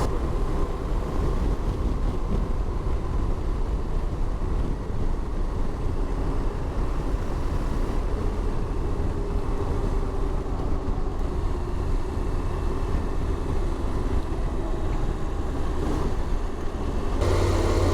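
Motorcycle riding, heard through an in-helmet microphone: a steady rush of wind noise over the engine's low rumble. Near the end the wind falls away and the engine's steadier note comes forward, as when the bike slows to a stop.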